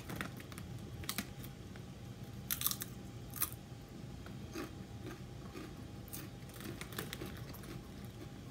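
A person crunching and chewing chips, with the crackle of a plastic snack bag being handled, a few sharp crackles followed by softer crunches.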